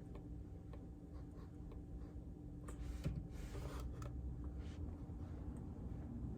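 Scattered, irregular keystrokes on a JJK84 mechanical keyboard fitted with Outemu Silent Peach linear switches, with a brief scratchy noise about three seconds in.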